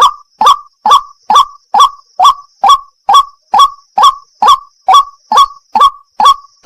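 White-breasted waterhen (wak-wak) calling: one loud, short call note repeated very evenly, about twice a second.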